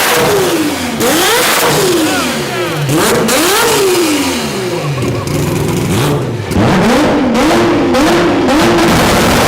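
Rotary engine free-revving loudly. The first few revs each climb quickly and fall away slowly. About six and a half seconds in it gets louder, with quick short blips held near the top of the revs.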